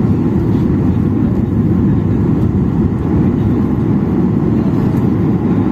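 Cabin noise inside a Boeing 737-800 airliner: a steady, even low rumble of the engines and airflow.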